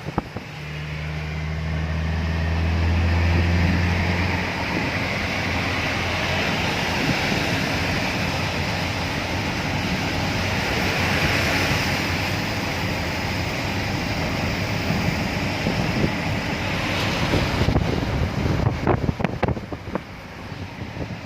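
Steady rushing noise of a vehicle moving on a wet road in the rain, with a low hum that stops about four seconds in. A run of clicks and knocks near the end.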